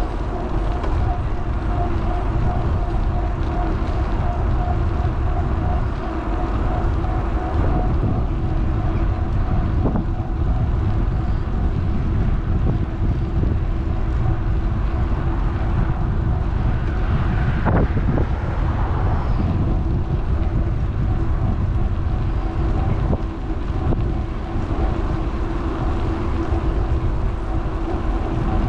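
Wind buffeting an action camera's microphone on a moving electric bike, over tyre rumble, with a steady, even-pitched whine from the e-bike's motor. A single knock comes about eighteen seconds in.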